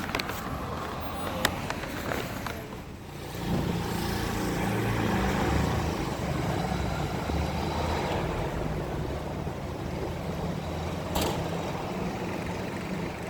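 Motor vehicle traffic on a city street: a low engine rumble comes in about three and a half seconds in and holds steady.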